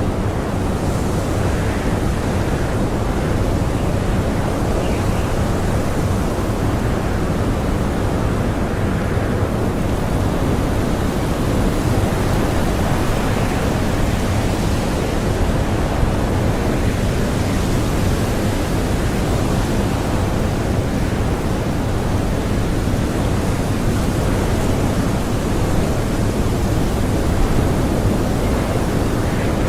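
Blizzard wind blowing hard and steadily, a dense low rushing with slow swells of gusts, heard from inside a cottage.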